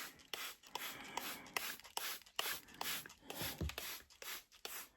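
Hand spray bottle squirting water in quick repeated pumps, about three squirts a second, wetting moss and substrate.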